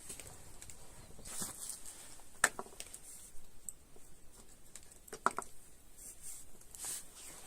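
Scattered light handling noises: soft rustles and clicks, with two sharper knocks about two and a half and five seconds in.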